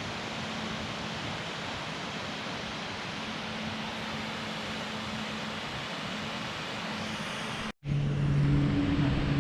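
Steady, even rushing noise outdoors on an open fell. Near the end it cuts off abruptly, and a different sound follows with low, steady held tones.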